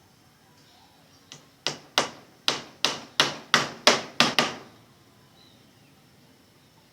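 A quick run of about ten sharp hammer blows, roughly three a second, the first one light, each dying away briefly.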